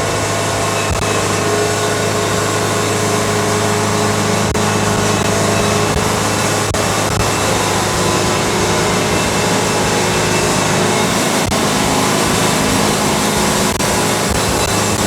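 Wood-Mizer band sawmill running steadily, its engine holding an even hum throughout, with no change in pitch or level.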